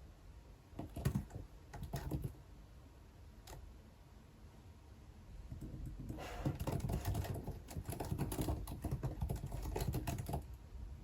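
Typing on a computer keyboard: a few separate keystrokes, then about halfway through a quick run of steady typing that stops shortly before the end.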